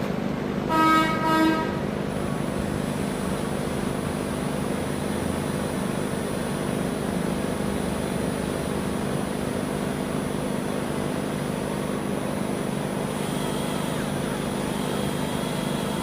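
Steady machine hum at an even level, broken about a second in by two short, pitched horn-like toots.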